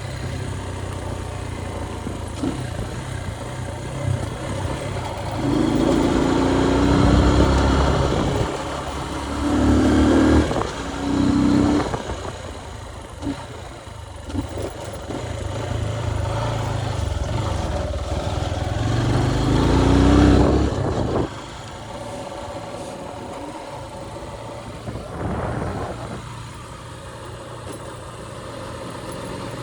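Motorcycle engine under way, revving up in several rising runs as it accelerates through the gears. Partway through, the revs drop back, and it runs lower and quieter.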